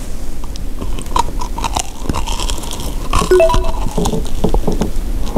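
Biting into and chewing an ice cream drumstick made to look like fried chicken: its crispy coating crunches and crackles in many small irregular snaps as it is chewed.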